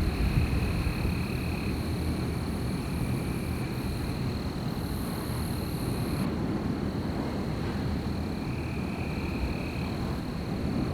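Steady wind rumble in a night-time forest ambience. Over it run a constant high, thin trill and a lower trill that comes and goes in bouts of a second or two. A high hiss cuts off suddenly about six seconds in.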